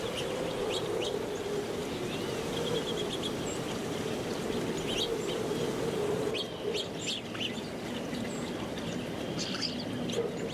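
Small songbirds giving short scattered chirps and call notes, with one brief rapid trill about two and a half seconds in, over a steady low background noise.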